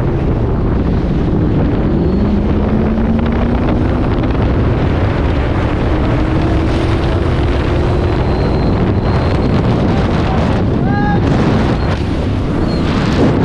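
Loud wind buffeting on the microphone over a car's running engine, with one engine note climbing slowly in pitch over several seconds.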